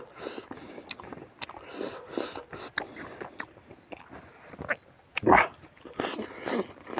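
Close-miked eating sounds of a man chewing rice and smoked pork by hand: irregular wet chewing and lip-smacking, with one loud bite a little over five seconds in.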